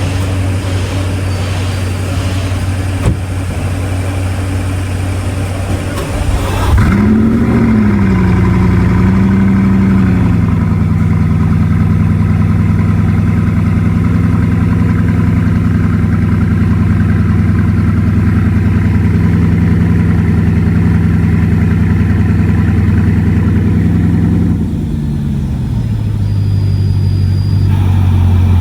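Bugatti Chiron Sport's quad-turbo W16 cold-starting about six and a half seconds in: a sudden flare in revs that dips and settles into a steady high idle, which drops to a lower idle near the end. A steady low hum comes before the start.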